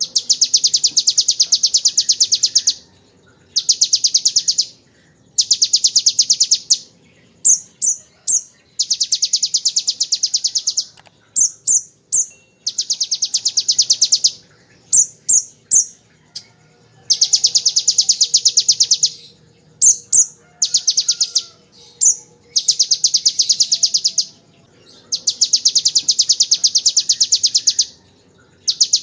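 Kolibri ninja (Van Hasselt's sunbird) singing long, very rapid high trills of two to three seconds each, the buzzing 'ngebren' burst copied from the ciblek (bar-winged prinia). Between trills come short pauses and brief sharp chirps.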